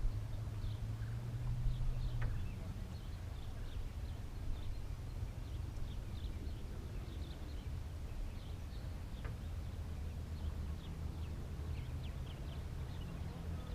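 Lakeside outdoor ambience: small birds chirp in short, repeated notes throughout, over a steady low hum.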